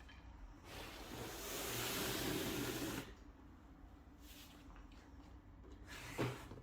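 Faint rustling of packaging being handled, swelling for about two seconds and stopping abruptly, with one short knock near the end.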